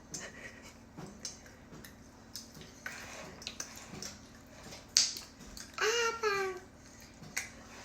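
A toddler's short, falling cat-like 'meooww' aeroplane noise about six seconds in, made while spoon-feeding. Around it come small clicks and knocks.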